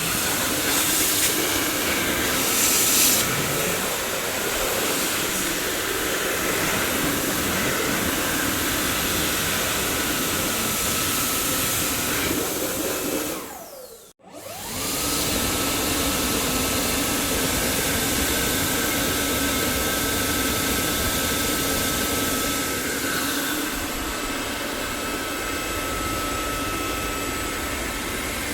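Dyson vacuum cleaner motor running with a steady whirring rush and a high whine. About halfway through it winds down in falling pitch and cuts out briefly, then spins back up in rising pitch and runs steadily again.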